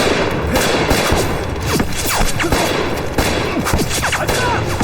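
Film gunfight sound effects: a rapid volley of many gunshots in quick succession, with a few short whistling glides among them.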